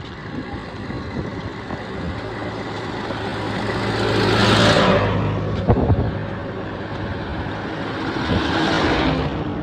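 Two motor vehicles passing close by one after the other. The first is loudest about four and a half seconds in and the second near the end. A sharp knock comes just after the first one goes by.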